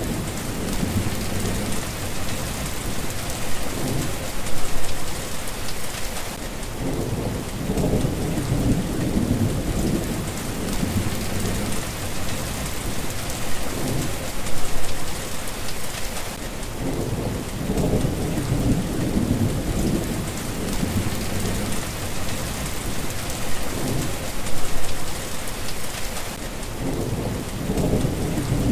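Steady rain falling, with low thunder rumbling in the background that swells several times, loudest about five, fifteen and twenty-five seconds in.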